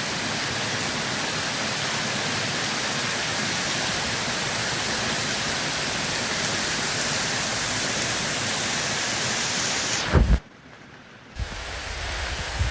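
Steady rain hiss. About ten seconds in there is a short, loud low thump, then the sound drops away for about a second. It comes back as rain with a deeper low rumble.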